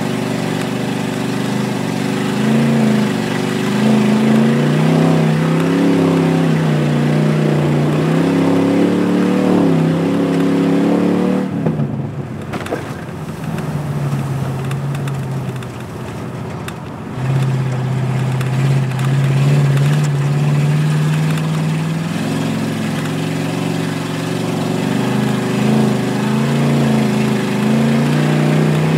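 Car engine heard from inside the cabin, revving up and down as the car drives on an ice track. About halfway through, the engine note drops away for some five seconds, leaving a rough rumbling noise, then comes back and holds steady.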